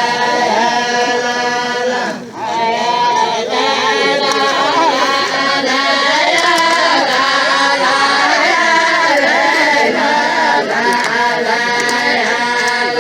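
A group of voices chanting a traditional southern Saudi tribal chant (tarq) in unison. It starts suddenly and sings in long sustained phrases, with a short break about two seconds in.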